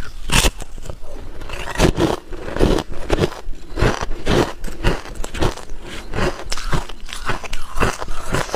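Hard clear ice being bitten and chewed, a steady run of sharp, cracking crunches about two a second.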